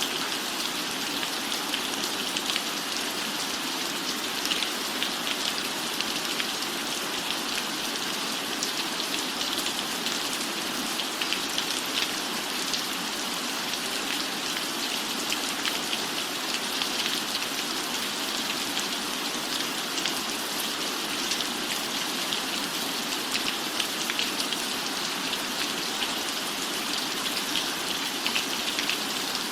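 Steady rain falling: a dense, even hiss sprinkled with many small, sharp drop ticks.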